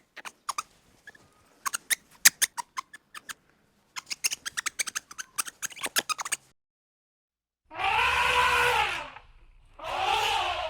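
A quick run of sharp clicks, then two drawn-out animal calls, each rising and falling in pitch.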